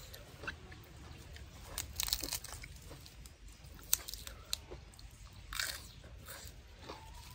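A person chewing a mouthful of food up close, with irregular sharp crunches, loudest about two and four seconds in. Fresh lettuce leaves are torn by hand.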